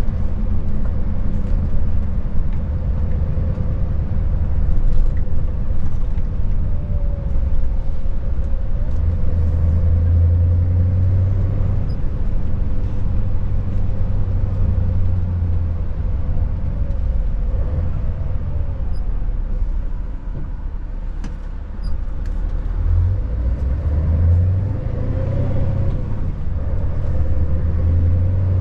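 Scania S580's V8 diesel engine running as the truck drives, a steady low rumble with a faint constant tone above it; it eases off about twenty seconds in, then pulls harder again.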